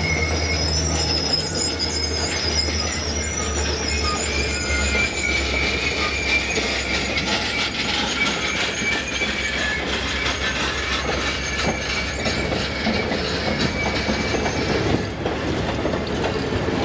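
Alaska Railroad train running on the rails, its steel wheels squealing in high, wavering tones over a steady low rumble.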